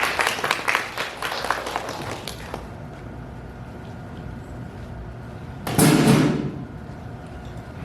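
Brief applause from a small audience, many claps for about two and a half seconds, then fading. About six seconds in there is a single loud thump.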